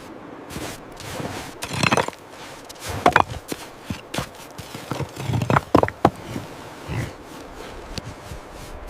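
Footsteps crunching and scraping on snow and ice, at an irregular pace, loudest about two, three and six seconds in.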